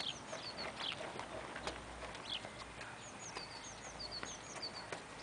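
A songbird singing: a run of quick, high, falling chirps near the start and again from about three seconds in, faint, over outdoor ambience with a few soft taps.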